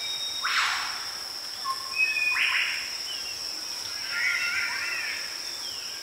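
Bird calls over a steady high-pitched drone: two harsh calls, about half a second and two and a half seconds in, then a flurry of short chirps and sweeps around four to five seconds in.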